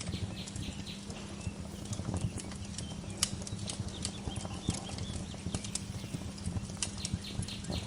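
Wood fire crackling in a fireplace, with irregular sharp pops and snaps over a steady low rumble. Faint bird chirps come through near the start.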